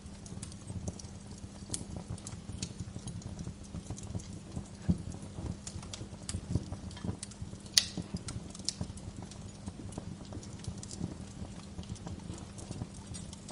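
Wood log fire in a fireplace crackling, with irregular small pops over a low, steady rumble of the flames. One sharp, louder pop comes a little past the middle.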